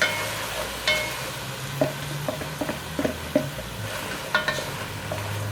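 Chicken pieces frying and sizzling in oil with spices and yogurt in a pan, while a spoon stirs them and knocks against the pan several times.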